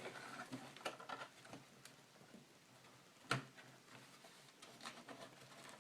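Faint small clicks and taps of a plastic laptop panel being pried up, its snap catches releasing, with one sharper click about halfway through.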